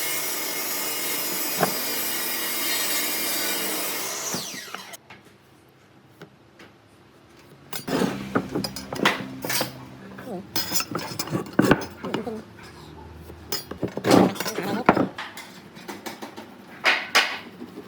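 A woodworking power tool running steadily on wood, then switched off and winding down about four seconds in. After a short lull there are irregular knocks and scraping of wood being handled and worked by hand.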